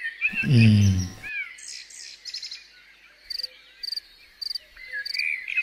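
Birds chirping, with one bird repeating a short, high chirp about twice a second in the second half. Near the start there is a short, low voice-like sound, falling in pitch for about a second, that is louder than the birds.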